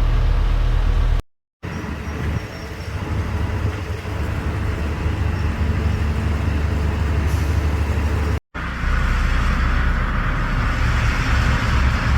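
Heavy diesel engine of a construction machine running, a steady low rumble with machinery noise. The sound drops out completely twice, briefly, where the recording cuts.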